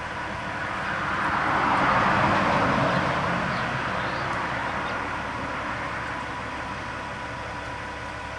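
A vehicle passing by: its noise swells to a peak about two seconds in, then slowly fades away.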